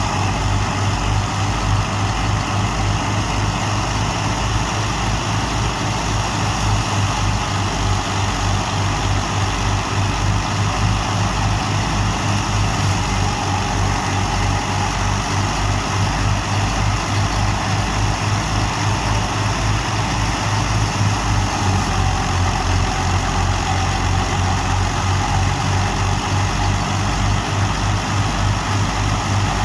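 Fiat 480 tractor's three-cylinder diesel engine running steadily with an even low pulse, driving a wheat thresher that adds a constant rushing noise over it.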